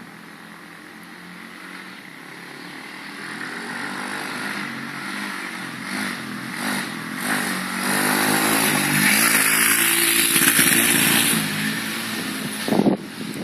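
Roketa 125cc pit bike's single-cylinder engine running under throttle, its pitch rising and falling as it revs, growing louder to a peak about two-thirds of the way through before easing off. It runs freely on a freshly cleaned carburettor. A few sharp bumps come near the end.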